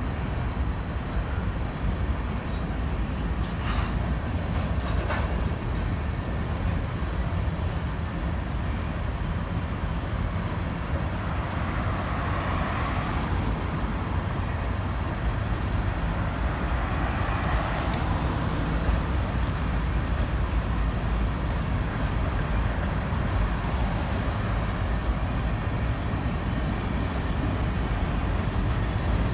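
A train rolling past, a steady low rumble of wheels on rail with a few light clicks and two brief swells of higher hiss partway through.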